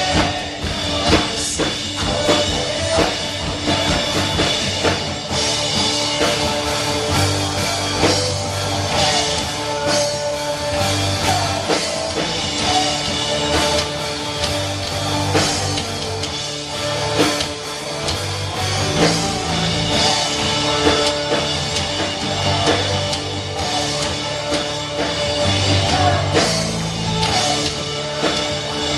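Live rock-style worship band playing with drum kit, guitar and bass and a steady beat, mostly instrumental.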